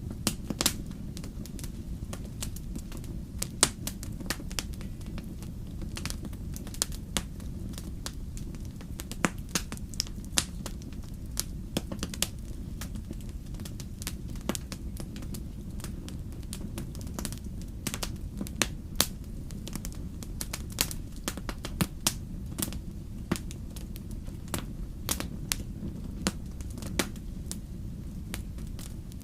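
Wood fire burning, crackling with irregular sharp pops over a steady low rumble.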